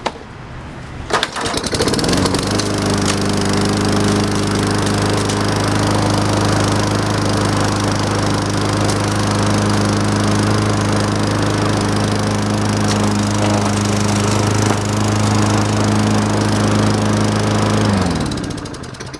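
Lawn-Boy mower's 195cc Tecumseh four-stroke single-cylinder engine pull-started cold after four primes. It catches about a second in and speeds up to a steady governed run. Near the end it is shut off and winds down to a stop.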